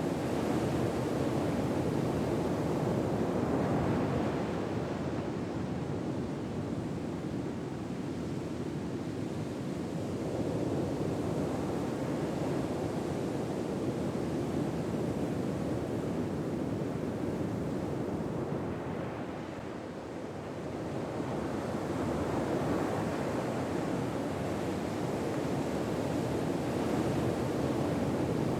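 Gentle ocean waves washing on a shore, a steady hiss that slowly swells and eases as each wave comes in and falls away.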